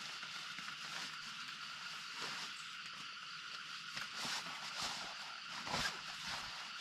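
Steady high-pitched outdoor background, like an insect chorus, with several short knocks and scrapes of handling, the loudest a little under six seconds in.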